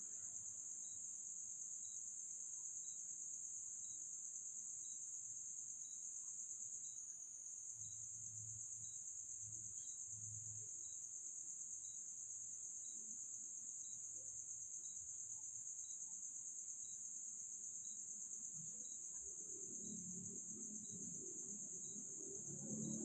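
Crickets chirping in a steady, high-pitched chorus, with a faint tick about once a second.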